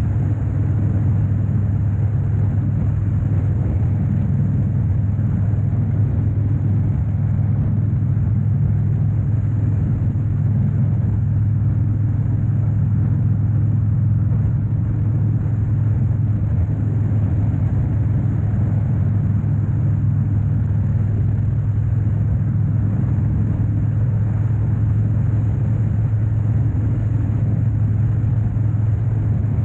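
2013 Harley-Davidson Dyna Wide Glide's 103-cubic-inch Twin Cam V-twin engine running steadily under way, its exhaust note holding an even pitch with no revving.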